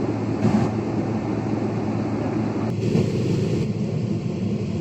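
Airliner cabin noise on the ground while holding for takeoff: a steady low rumble of the engines and cabin air. Two brief hisses rise over it, about half a second in and around three seconds in.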